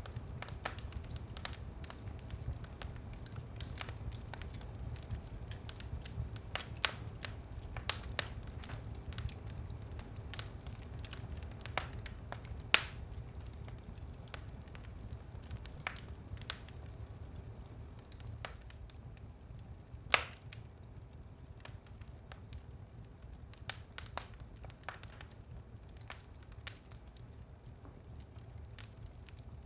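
Wood fire burning in a fireplace: irregular crackles and snaps over a steady low rumble, with two louder pops about 13 and 20 seconds in.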